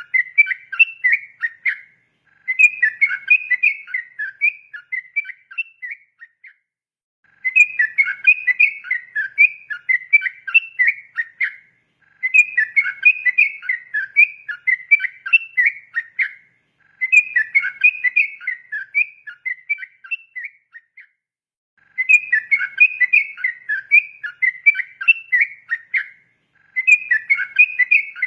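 Trucukan (yellow-vented bulbul) singing its rapid 'ropel' song: long phrases of quick, bubbling whistled notes, each lasting about four to five seconds, with short pauses of about a second between them.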